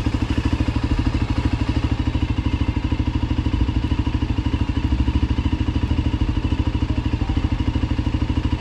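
Voge 300 Rally's single-cylinder engine idling steadily, with a fast, even pulse of about a dozen beats a second.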